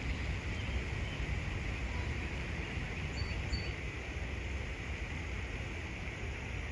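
Steady outdoor background noise with a deep rumble, and two faint short high chirps a little after three seconds in.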